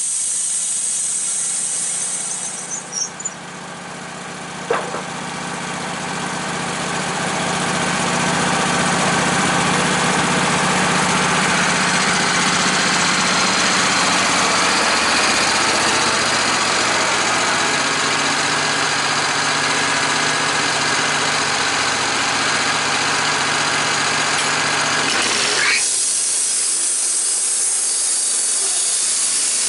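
An engine running steadily, which builds up a few seconds in and cuts off abruptly near the end, giving way to a loud high hiss. A hiss fades out about two seconds in, with a few light clicks after it.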